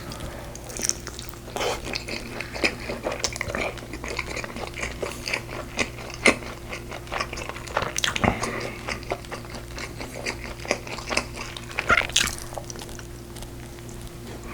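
A person chewing and biting braised pork ribs: wet mouth sounds and frequent short, sharp clicks, over a steady low hum.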